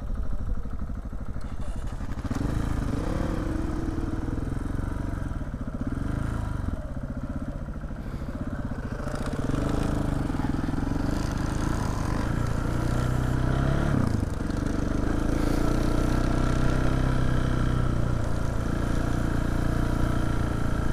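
KTM 690 Enduro R's single-cylinder four-stroke engine under way off-road, revving up and easing off several times, its pitch rising and falling, with a brief dip about fourteen seconds in.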